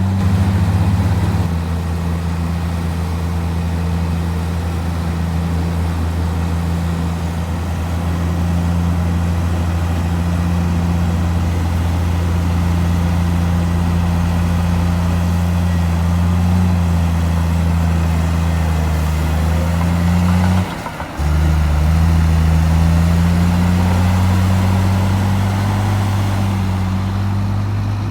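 Heavy diesel engine of earthmoving machinery running at a steady low drone, its pitch drifting slightly. The sound drops out for a split second about two-thirds of the way through, then resumes.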